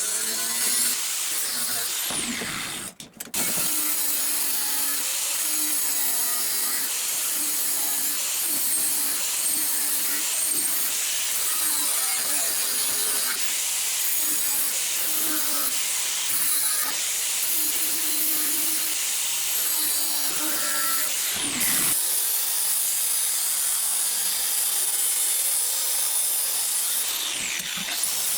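Power tool grinding the steel of an old wood saw blade, a steady harsh hiss broken by two short cuts about 3 and 21 seconds in.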